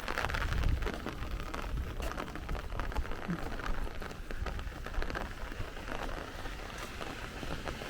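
Heavy rain falling steadily on the street, a dense patter of drops, with a low rumble in the first second.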